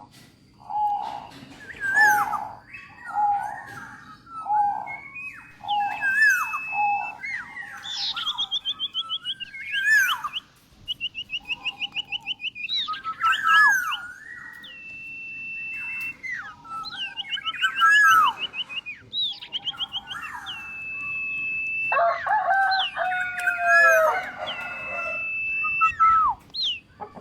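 Birdsong from several birds: a zebra dove (perkutut) cooing in repeated low notes, amid high whistles, chirps and rapid trills from other songbirds. Calls overlap most densely near the end.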